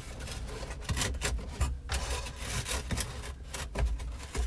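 Flexible heater/AC duct hose being pushed and worked into place behind a truck dashboard, rubbing and scraping in irregular scuffs.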